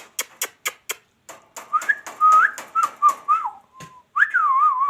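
A quick run of about five sharp clicks, then whistling: one clear tone that warbles and slides up and down, with short trills near the end.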